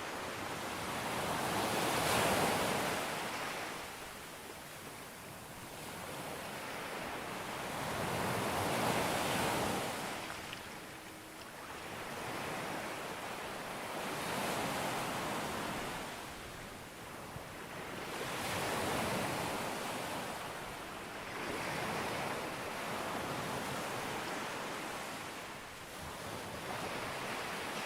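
Sea waves breaking on a beach. The surf swells and ebbs in a slow rhythm, about five waves over the stretch, each rising to a wash and then falling away.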